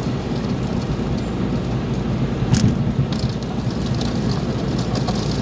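Steady road and engine noise of a car being driven, with one sharp click about two and a half seconds in.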